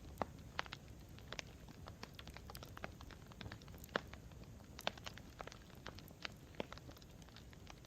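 Campfire crackling: irregular sharp pops and snaps from burning wood, several a second at uneven spacing, over a steady low rumble.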